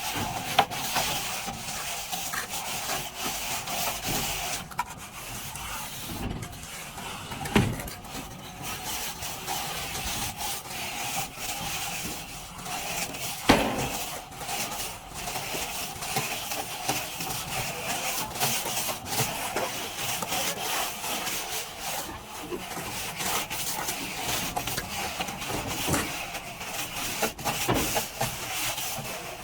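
Plastering trowel scraping and rubbing plaster across a wall in continuous strokes, with a few sharper knocks of the tool, the loudest about a third and halfway through.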